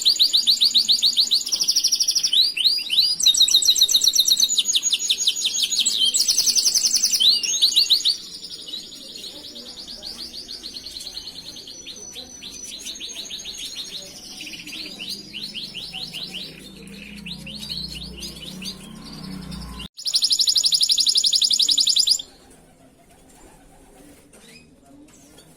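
Domestic canary singing long, rapid trills of high notes, loud for the first eight seconds and then softer. After an abrupt cut about twenty seconds in comes a short, loud burst of trilling, and then the song drops away.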